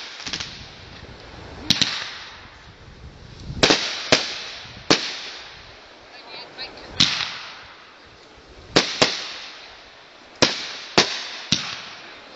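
Fireworks going off: about a dozen sharp bangs at irregular intervals of roughly half a second to two seconds, each trailing away in an echo, with a few small pops in between.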